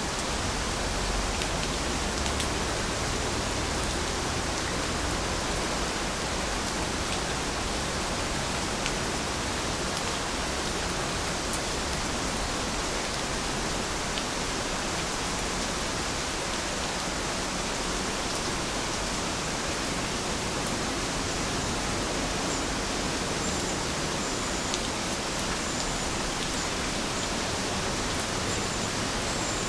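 Steady heavy rain, an even hiss with occasional sharper drop ticks.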